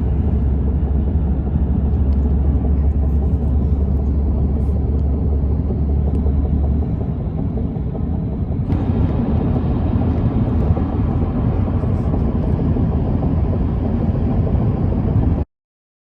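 A train running past with a steady low rumble and a deep hum; the hum drops away about seven seconds in, and about nine seconds in the sound turns noisier and brighter before it cuts off.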